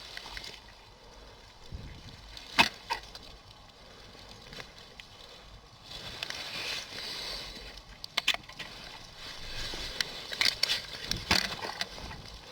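Footsteps crunching and rustling through forest undergrowth, with irregular sharp snaps of twigs, the loudest about two and a half seconds in.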